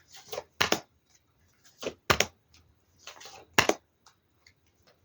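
Playing cards being drawn off a deck and laid onto a table: a brief slide of card against card, then a sharp snap, three times about a second and a half apart.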